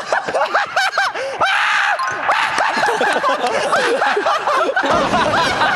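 Several young men laughing and snickering over one another, with high, bending voice cries mixed in.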